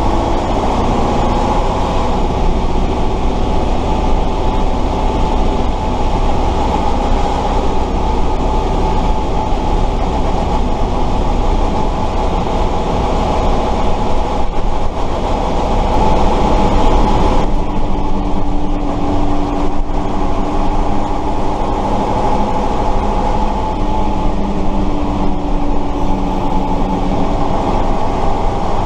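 1968 Tatra 138 fire truck's V8 engine running while driving, heard from on board as a loud, continuous drone with steady tones. About two-thirds of the way through the sound changes: the hiss drops away and a lower steady tone comes in.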